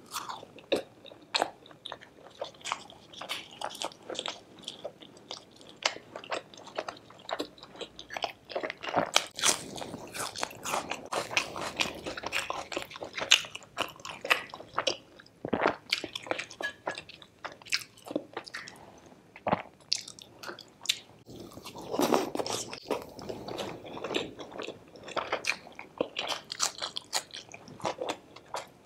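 A person biting and chewing crispy fried puri dipped in curry, with many irregular crisp crunches throughout.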